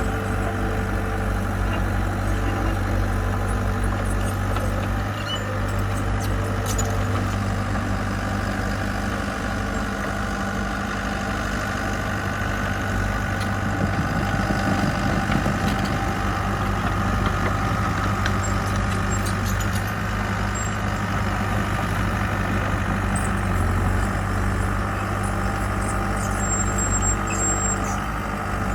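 Construction machine's diesel engine running steadily at an even speed.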